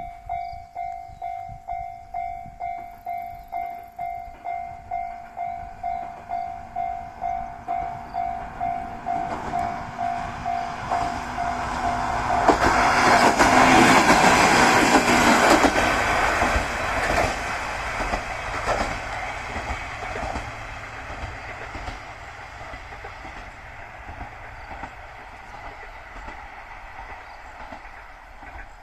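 A Japanese level-crossing alarm rings a fast, steady ding-ding-ding. Then a Shinkansen-styled diesel railcar rushes through the crossing, loudest a little under halfway in, its wheels clacking over the rail joints. The train then fades away.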